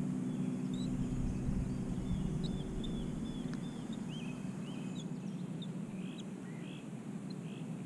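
Birds chirping in many short, scattered notes, over a steady low hum.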